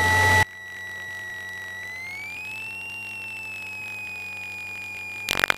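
Cessna 172 stall warning horn sounding a steady high whine that rises in pitch about two seconds in, eases slightly back down, and cuts off near the end. It warns that airspeed has bled off toward the stall on the approach.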